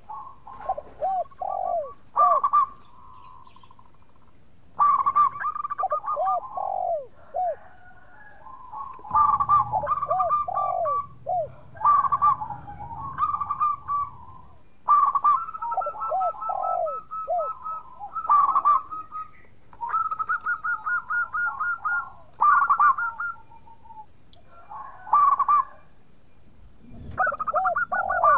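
Zebra dove (perkutut) singing: repeated phrases of quick rattling notes, each followed by a few lower, rounded coos, with short pauses between phrases.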